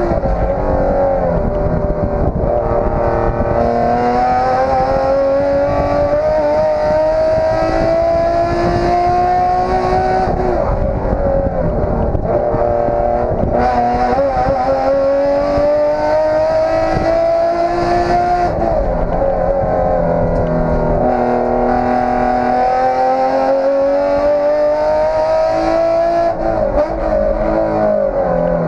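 Nissan 350Z race car's engine heard from inside the cabin on a fast lap, its pitch climbing steadily in three long pulls and dropping sharply twice in between.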